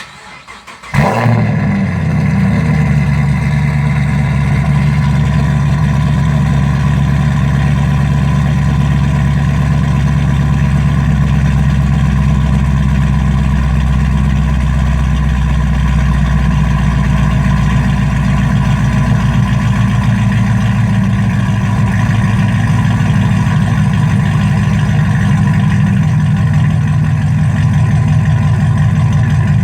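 A 2010 Camaro SS's 6.2-litre L99 V8 cold start: a brief crank, then the engine fires about a second in and settles into a steady, loud idle through long-tube headers, a catless X-pipe and Flowmaster Outlaw axle-back mufflers with no tips.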